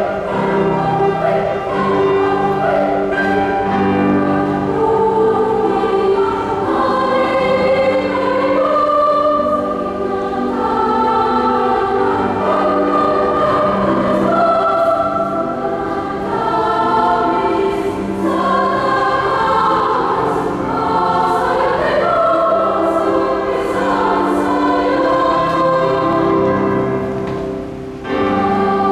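A choir singing in sustained, overlapping parts. It pauses briefly near the end and then comes back in on the next phrase.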